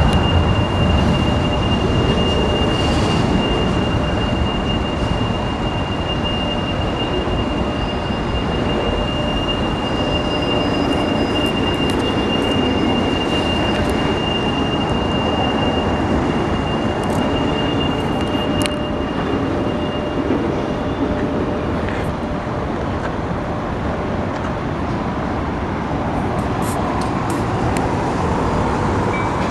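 Union Pacific freight train's cars rolling steadily past on the rails, with a thin, high, steady wheel squeal that stops about two-thirds of the way through, and scattered sharp clicks from the wheels.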